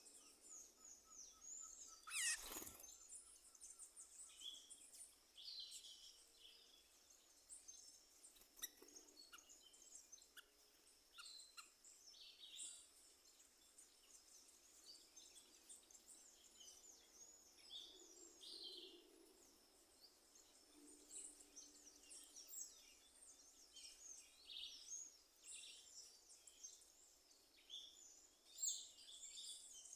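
Faint birdsong: many short chirps and twitters from several small birds, overlapping throughout. A brief louder sound that falls in pitch comes about two seconds in.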